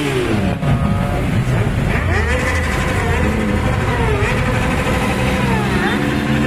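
Motorcycle engines revving, their pitch rising and falling repeatedly over a steady rumble.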